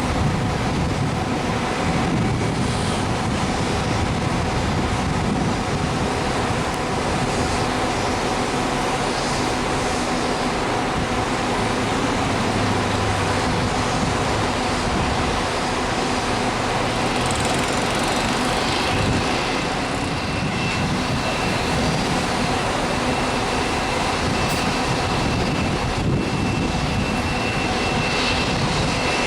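Jet airliner engines running steadily, with a rushing noise and a constant hum, and a high steady whine joining about two-thirds of the way through.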